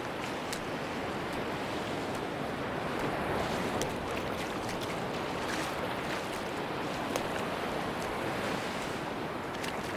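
Sea surf washing onto a beach, a steady rush of waves with faint scattered ticks, swelling slightly about three seconds in.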